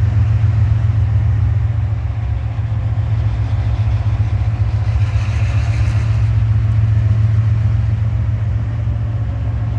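A slow-moving train rolling past, a steady low rumble.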